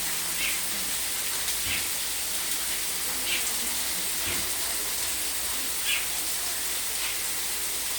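Steady rain falling, an even hiss, with a few faint short high-pitched sounds every second or so.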